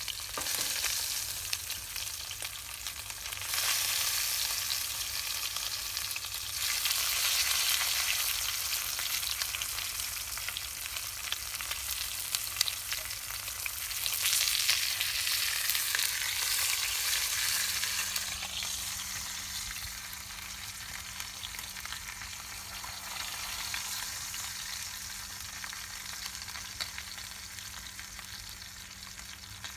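Pork roasting over a campfire: a steady sizzling with fine crackles. It swells louder a few times and eases off near the end.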